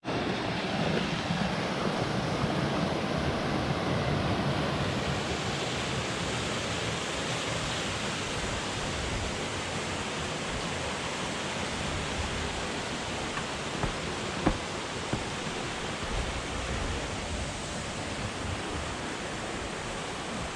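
Steady rush of water from a mountain stream, an even noise that gets a little brighter about five seconds in. A few faint clicks fall around two-thirds of the way through.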